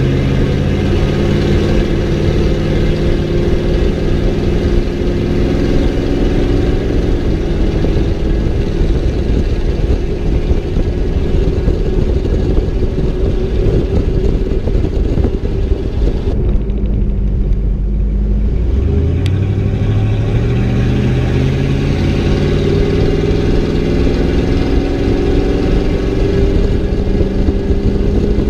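A straight-piped 5.8-litre V8 exhaust on a 1992 Ford Bronco, running under load. About 16 seconds in the engine note drops off for a couple of seconds, then climbs steadily as the engine revs up again.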